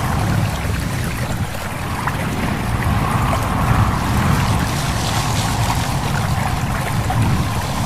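A stream babbling steadily, with a constant low rumble of running water underneath.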